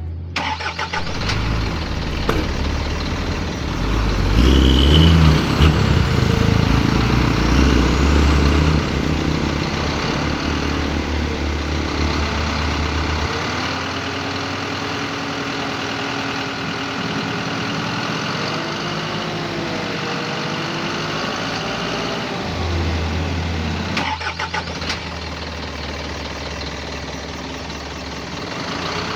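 Diesel dump truck engine running, with a heavy low rumble in the first half, then settling to a lower note with wavering revs. The sound changes abruptly about 24 seconds in.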